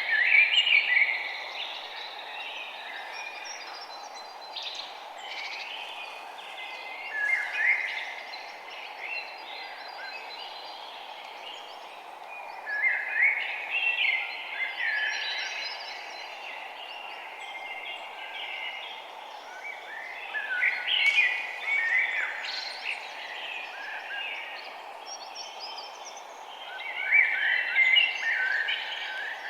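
Several small birds chirping and twittering in bursts, over a steady background hiss.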